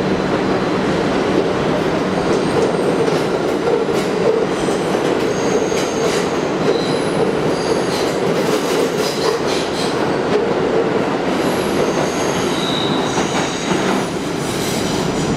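R62A subway train running through the station with a steady rumble and clicks from the wheels over the rail joints. Short, high-pitched wheel squeals come and go through the middle of the sound.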